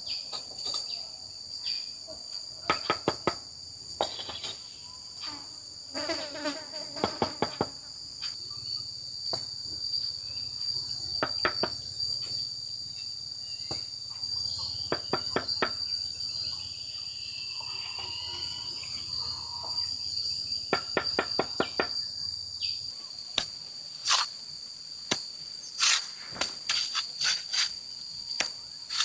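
A steady high-pitched insect chorus trilling without a break, with scattered sharp knocks and clicks on top, several coming in quick runs of three to five.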